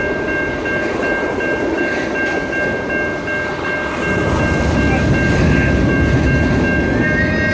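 Train cars rolling past on the rails, a steady rumble and rattle that grows louder about four seconds in, with a steady high-pitched tone over it.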